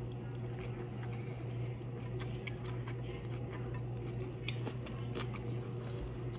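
Close-miked chewing of a crisp fried taco shell, with small crunches and crackles scattered irregularly throughout. A steady low hum runs underneath.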